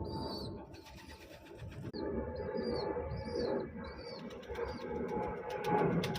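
Pigeons cooing, with a string of short, high chirps over them.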